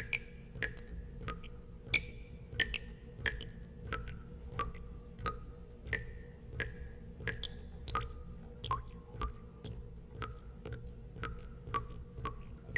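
Water drops falling one after another, about two a second at uneven intervals, each landing with a short ringing plink at a different pitch, over a faint low hum.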